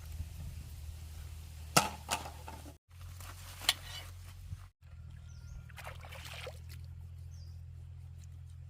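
A few sharp clicks and a brief rustle over a low steady hum, with two short total dropouts in the sound.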